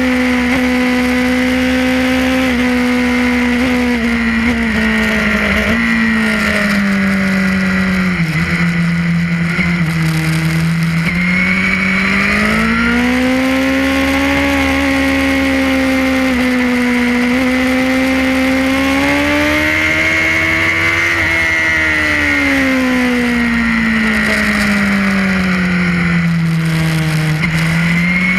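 Suzuki GSX-R race motorcycle's inline-four engine at racing speed, heard from on board. Its pitch glides down as the bike slows and climbs again under acceleration, sinking low twice.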